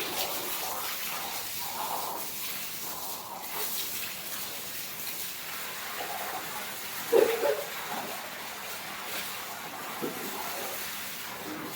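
Buffalo milked by hand, the milk streams squirting into a pail with a steady hiss. A short, louder sound stands out about seven seconds in.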